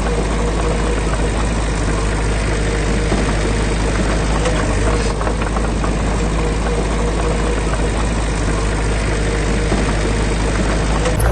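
Heavy construction machine's diesel engine running steadily with an even, low hum.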